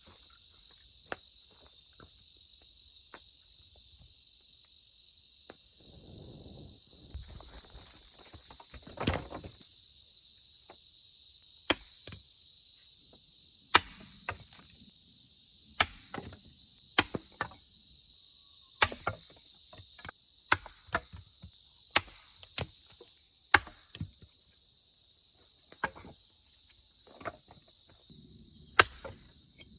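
Steady high chirring of insects throughout, with some rustling in the first third. From about a third of the way in, sharp knocks of wood being struck come roughly once a second, some in quick pairs.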